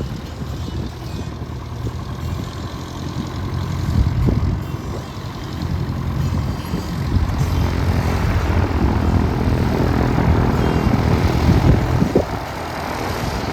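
Light single-engine propeller airplane's piston engine running, growing louder for several seconds and easing off again near the end.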